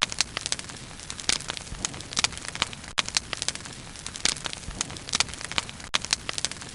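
Wood bonfire burning, with frequent irregular sharp crackles and pops over a steady hiss.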